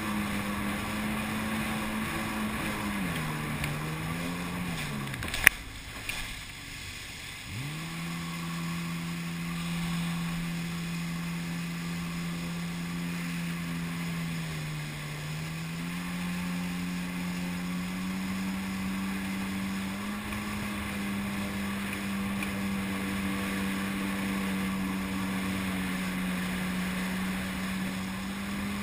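Jet ski engine running steadily at speed with a drone that sags in pitch a few seconds in. A sharp knock about five and a half seconds in is followed by about two seconds where the engine note drops away, then it comes back and holds steady with small rises and dips.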